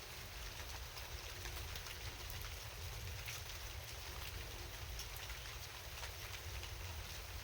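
Steady rain at night, an even hiss with scattered individual drop ticks, over a low steady rumble.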